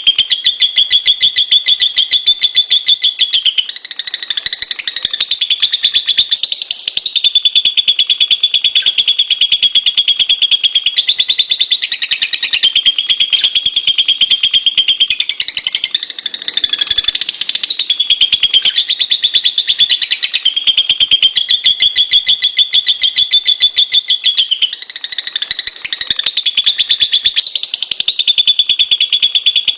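Lovebird chattering in a fast, unbroken stream of shrill, rapidly repeated notes, going on without pause.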